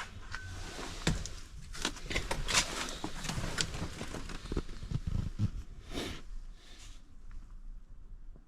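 Scattered clicks, knocks and rustling from someone handling things inside the Ford Transit van's cab, with no engine running.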